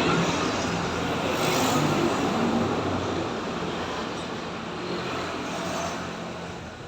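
Noise of a passing road vehicle, loudest about two seconds in and then slowly fading away.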